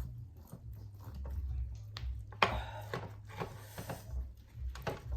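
Close-miked chewing and gnawing on oven-baked pork spare ribs: irregular wet mouth clicks and crunching, with one sharper, louder crunch about two and a half seconds in.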